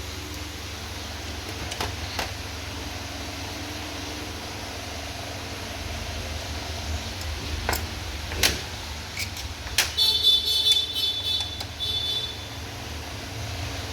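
Hand tools knocking and clicking on metal during starter-motor teardown, with a quick run of fine metallic clicks about ten seconds in, over a steady low hum.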